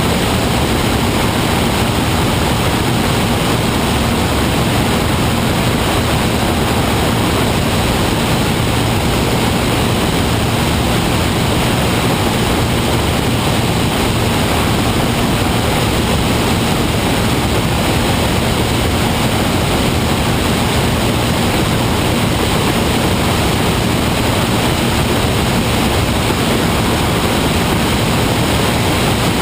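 Steady drone of a P-51 Mustang's propeller engine, running at a constant setting under an even rushing hiss, with no change in level or pitch.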